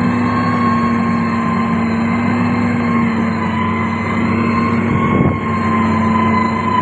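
Heavy road-construction machine's diesel engine running steadily, with a steady whine over the engine rumble.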